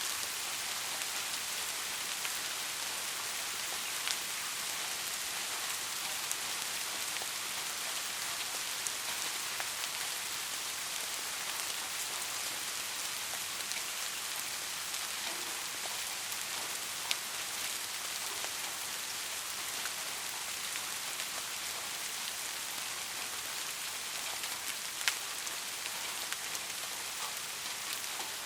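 Steady rain falling on a surface, an even hiss with a few sharp drop ticks standing out.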